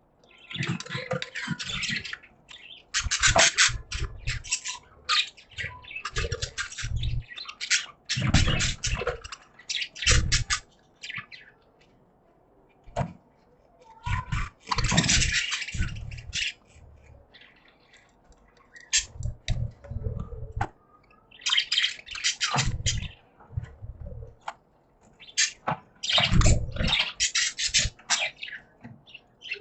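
Pet budgies chattering and chirping in scratchy bursts of a second or two, with short pauses between them and a couple of longer quiet gaps.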